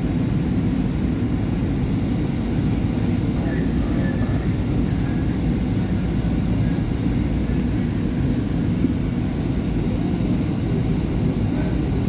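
Steady low rumble of a SEPTA Market-Frankford Line train running between stations, heard from inside the passenger car.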